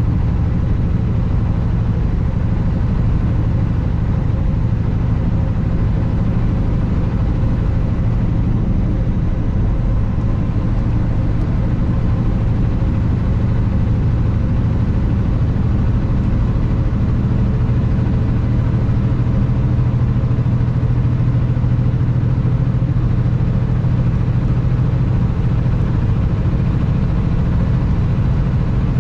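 Kenworth W900 semi truck's diesel engine running steadily as it drives, a deep drone that holds one pitch and level throughout.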